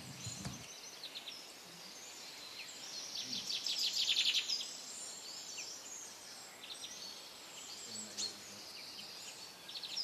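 Small birds chirping in the background, with a quick run of chirps about three to four and a half seconds in as the loudest part.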